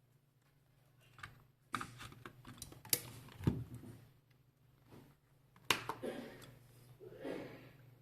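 Scattered sharp plastic clicks and knocks, with one duller thump about three and a half seconds in: a motherboard and a POST diagnostic card being handled and plugged in on a repair bench.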